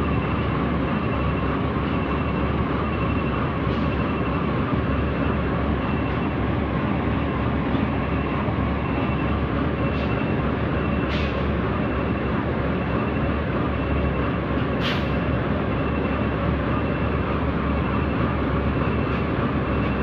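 Heavy diesel engine running steadily, with a faint high beep repeating at an even pace and a couple of brief sharp clicks.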